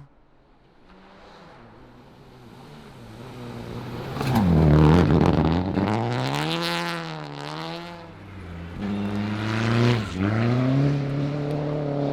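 Rally car engine rising out of near quiet and getting loud about four to five seconds in, its pitch swinging down and up as it revs. It eases off near eight seconds, then comes back with a steadier note that dips briefly near ten seconds.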